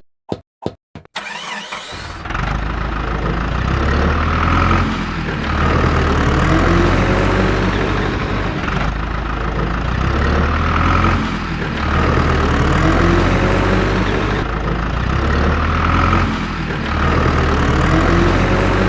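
A few clicks, then an engine starts about two seconds in and keeps running, swelling and easing off in a regular cycle about every three seconds.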